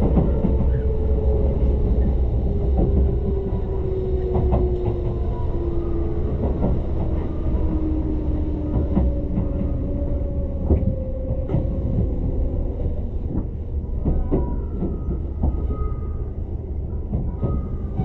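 Tobu Ryomo limited express train slowing into a station, heard on board: a steady low rumble with a drive whine gliding slowly down in pitch, and wheels clicking over rail joints at ever wider spacing as the train brakes to a stop.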